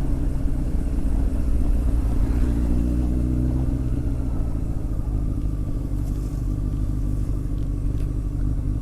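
Honda X4 motorcycle engine running steadily under way, a low continuous drone with a few faint ticks near the end.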